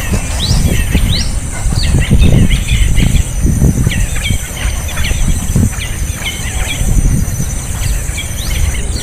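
Small birds chirping in quick, short rising chirps, typical of a nestling begging for food, over a steady high insect whine and a low rumble.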